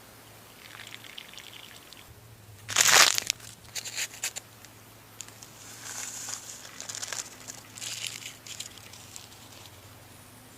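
Crinkling and rustling handling sounds in irregular bursts, the loudest about three seconds in, then a run of shorter crinkles.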